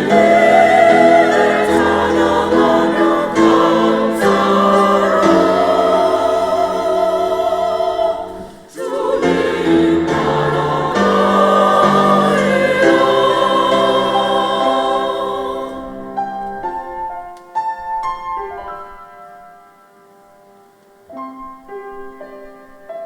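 Church choir singing a slow hymn in parts with instrumental accompaniment, with a short breath pause about halfway through. The choir's final phrase ends about two-thirds of the way in. Quiet, sparse piano notes then close the piece.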